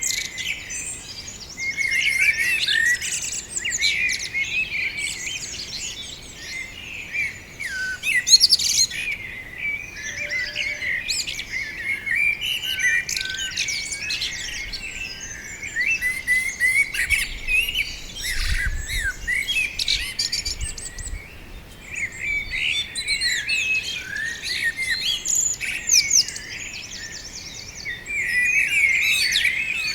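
Several birds singing together in a dense, continuous chorus of rapid chirps and twittering trills, with a brief low rumble a little past the middle.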